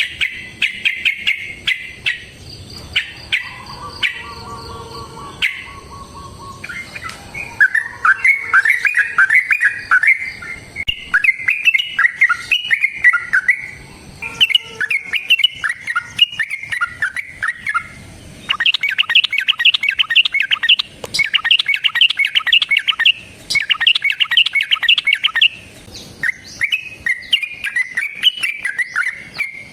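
Yellow-vented bulbul (trucukan) singing in long runs of rapid, bubbly chattering phrases, the excited 'fighting' song used to provoke other bulbuls into answering.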